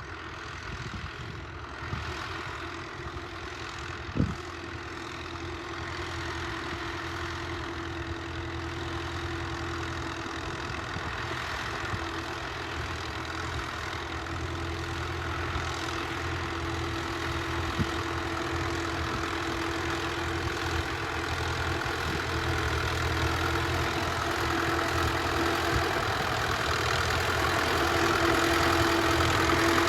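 Tractor diesel engine running steadily, growing gradually louder throughout, with a single sharp knock about four seconds in.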